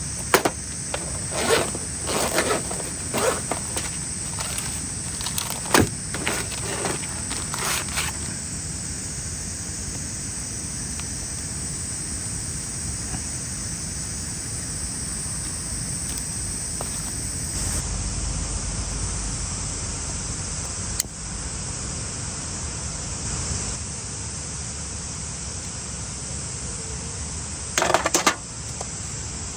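Outdoor summer ambience with a steady high insect drone. A run of small knocks and clatters comes in the first eight seconds, a single click later, and a short, louder clatter near the end.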